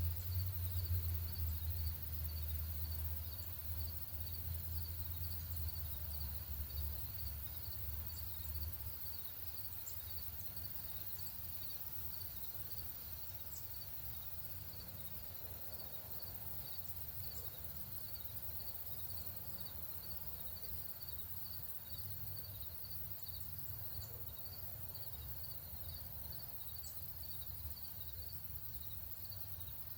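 Steady rhythmic insect chirping, high-pitched and repeating a few times a second, over outdoor ambience. A low rumble fades out about nine seconds in, and faint short high chips sound now and then.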